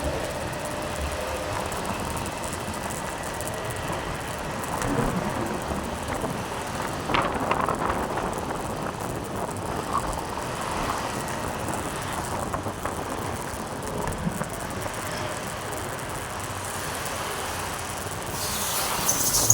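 Steady road noise from a moving motorcycle, with engine, tyres and wind rushing on the microphone, rising briefly a few times.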